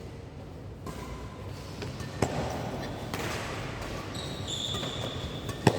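Badminton racket striking a shuttlecock in a hall: a sharp smack about two seconds in and a louder one near the end, with short high squeaks between them.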